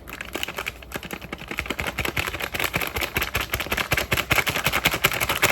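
A utensil stirring rapidly in a bowl: fast, irregular clicks and scrapes against the bowl, growing louder after the first couple of seconds.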